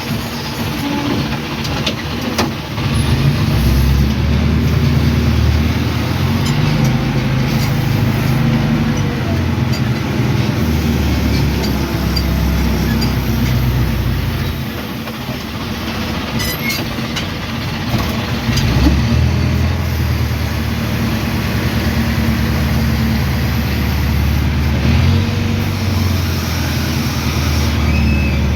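A crane's engine revving up and dropping back several times as it lifts loads onto a truck, with a few sharp clicks along the way.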